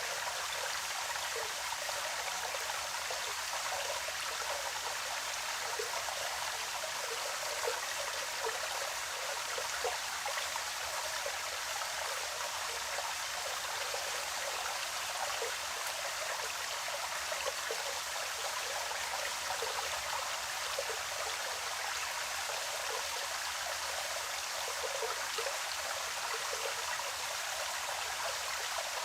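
Forest stream running over stones, a steady rushing with small bubbling splashes.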